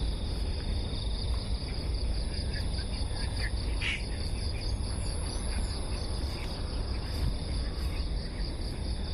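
A steady chorus of crickets or similar insects, a high chirring trill with fast even pulses, with short bird calls scattered through it and one louder call about four seconds in, over a steady low rumble.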